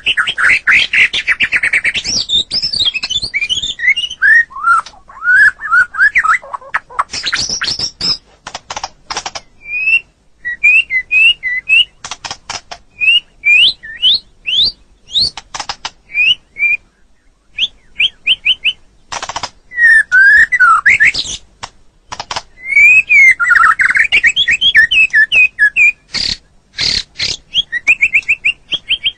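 White-rumped shama (murai batu) singing a varied, loud song: short whistled notes sliding up and down, quick trills, and harsh clicking chatters, in phrases separated by brief pauses.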